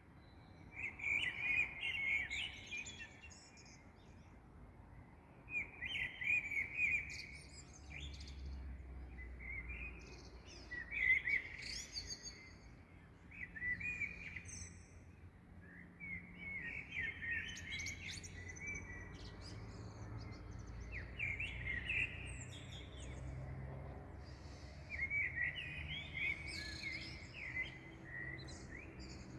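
Small songbirds in a dawn chorus: short, quick warbling phrases every few seconds, with thin higher chirps in between.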